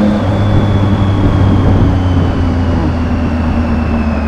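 Triumph motorcycle engine running at highway speed, heard with wind rushing over a helmet microphone. Its steady low note dips slightly about a quarter second in, and a thin high whine slowly falls in pitch.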